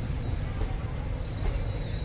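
Low, steady rumble of Indian Railways passenger coaches rolling slowly past on the departing Kovai Express, with a thin, steady, high-pitched drone of insects over it.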